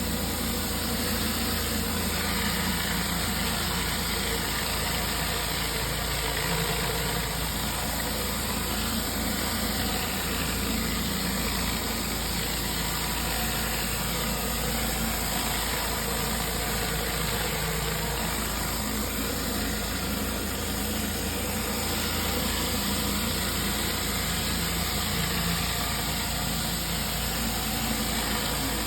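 Gas-engine pressure washer running steadily, its motor note under the constant hiss of the water spray.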